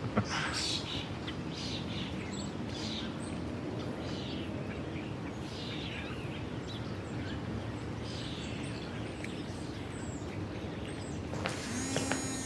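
Outdoor background ambience with birds chirping now and then. Near the end a mobile phone starts ringing.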